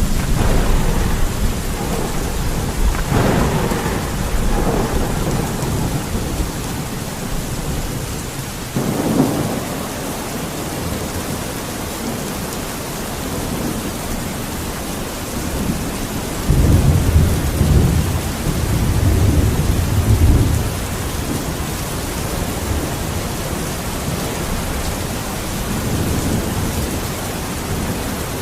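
Thunderstorm: steady heavy rain hissing, with thunder rumbling near the start, a sharper crack about nine seconds in, and a long deep roll of thunder a little past the middle.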